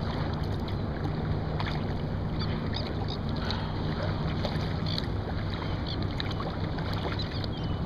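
Steady wind and water noise around a kayak on the sea, with a steady low hum underneath and a few faint small ticks.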